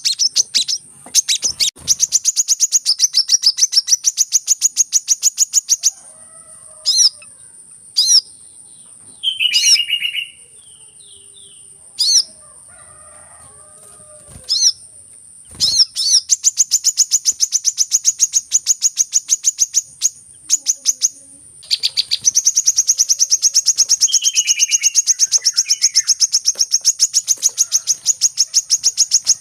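Sunbird calls, long runs of rapid, evenly repeated high chirps broken by a few short single calls, over a steady high-pitched whine. This is the kind of call used to lure sunbirds in.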